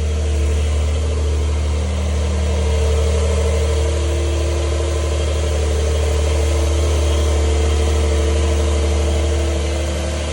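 Porsche 911 Carrera S (992) twin-turbo flat-six engine idling steadily, its note holding level.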